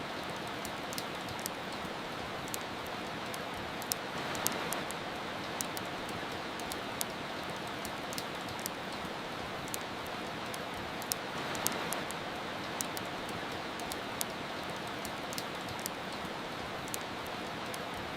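Steady rain as an even hiss, with a wood fire crackling over it in many sharp, irregular pops. The rain swells briefly twice.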